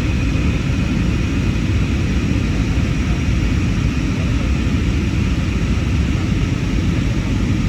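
Steady cabin noise inside an Airbus A320neo in flight: a low, even rumble of airflow and its CFM LEAP-1A engines, with a faint steady whine above it.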